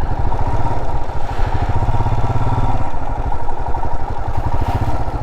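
Motorcycle engine running steadily at low speed, with a low, even pulse of its firing.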